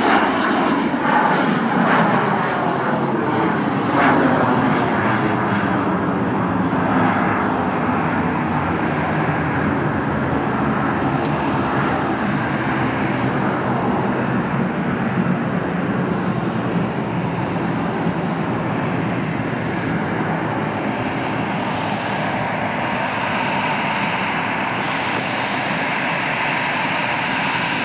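Jet aircraft engines running loud. In the first few seconds a whine falls in pitch as the aircraft passes, then a steady noise that eases slightly.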